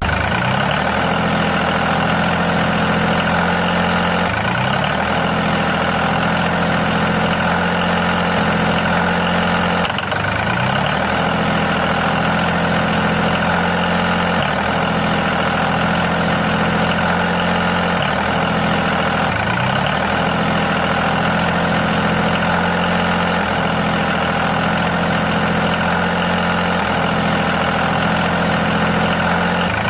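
Tractor engine idling steadily, with a brief rise in pitch every second or few.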